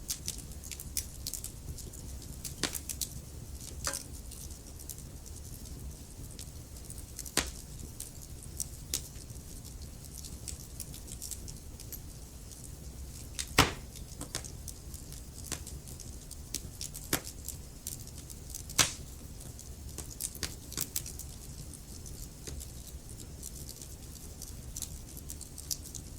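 Wood fire burning in a fireplace: irregular sharp crackles and pops over a steady low rumble of the flames, with two louder pops about halfway through and again a few seconds later.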